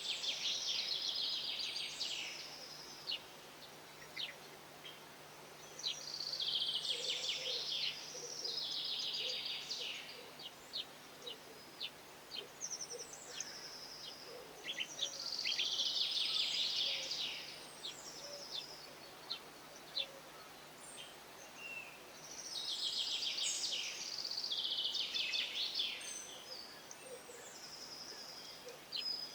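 A songbird singing short, fast-noted phrases of about two seconds, each sliding down in pitch, repeated every few seconds, with softer chirps in between.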